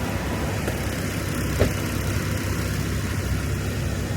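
Semi-truck diesel engine running steadily at idle, with one short click about one and a half seconds in.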